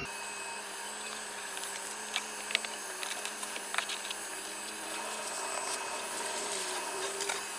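Steady hum of honeybees from an opened colony, with a few light clicks and taps from the comb being handled.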